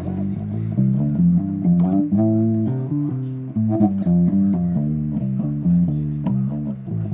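Bass guitar played solo, a melodic line of single notes moving up and down with fret and string clicks.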